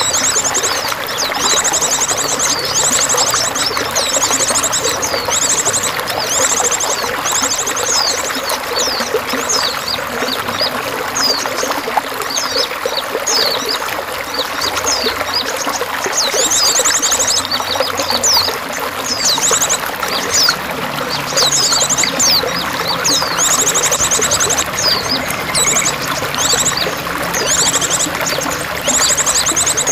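Steady running, trickling water with songbirds calling over it: many high chirps and fast trills, thick throughout.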